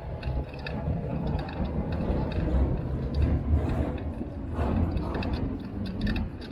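Street traffic and the rumble of a bicycle in motion, with small rattling clicks.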